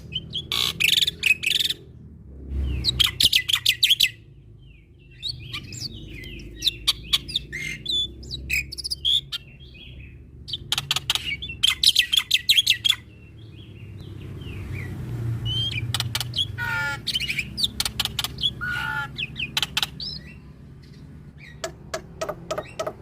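Male black-winged myna (Jalak Putih) in full varied song: bouts of rapid clicking rattles alternating with whistled, gliding notes and short trills.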